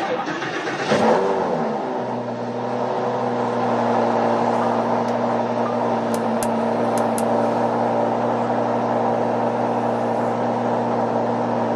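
Lamborghini Huracán V10 cold start: the engine catches and flares up about a second in, then settles into a steady, even high idle.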